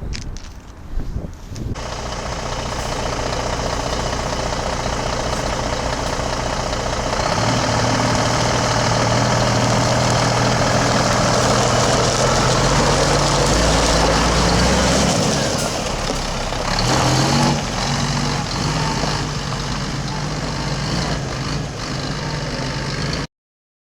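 Scania G380 truck's 11.7-litre turbo-diesel engine running. It gets louder about a third of the way through, and its pitch climbs and drops a couple of times later on. The sound cuts off abruptly just before the end.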